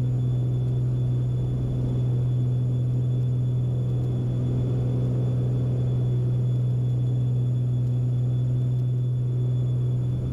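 Beechcraft Baron B55's twin piston engines and propellers droning steadily in flight, heard from inside the cabin.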